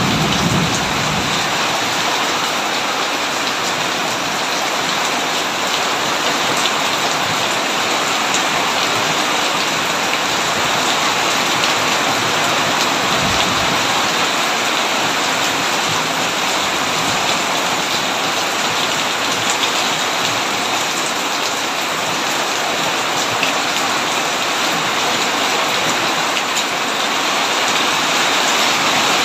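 Heavy, steady rain pattering on a tin roof. A low rumble of thunder dies away in the first second.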